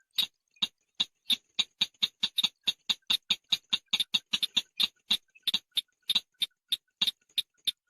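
Chàng nghịch bird calling: a rapid, even series of short, high-pitched chips, about six a second.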